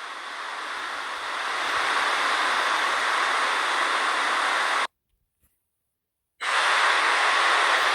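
A steady hissing noise that cuts off abruptly a little past the middle, leaving silence for about a second and a half, then starts again at the same level.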